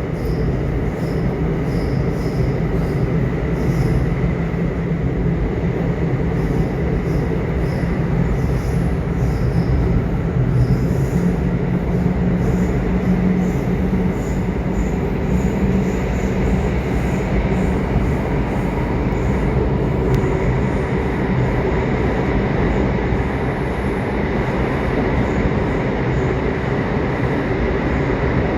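Subway train running at speed: a steady, dense rumble of wheels and running gear on the rails, with a faint steady high squeal of the wheels and scattered light clicks above it.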